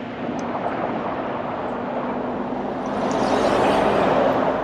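Wind rush and a motorcycle running at road speed, a steady rushing noise with a faint low hum underneath, growing louder about three seconds in.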